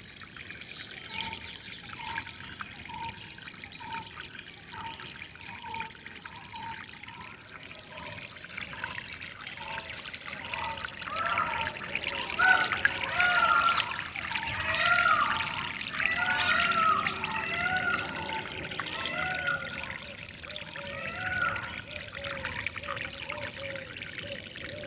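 Flowing water trickling steadily with birds calling over it. An evenly repeated short call runs through the first several seconds, then many overlapping chattering calls grow loudest in the middle.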